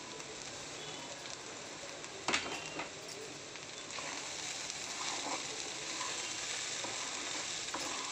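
Poha frying in a steel kadai with a steady sizzle. A sharp knock comes about two seconds in, and the sizzling grows louder from about four seconds as the rice is stirred.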